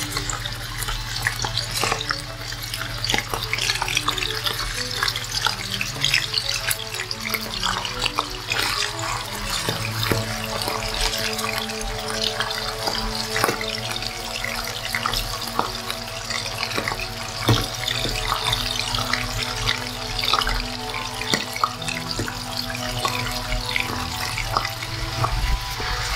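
Chicken gizzards sizzling as they fry in hot oil in a stainless-steel pan, with many small pops throughout.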